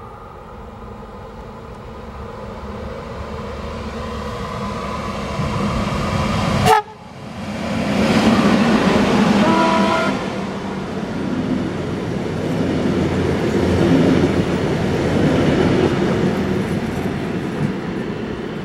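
Electric-hauled passenger train with double-deck coaches approaching and passing at speed: a steady hum and rumble that swells as it nears, then the loud rumble and clatter of the coaches going by, easing off near the end. About seven seconds in there is a sharp click and a sudden brief dip in the sound.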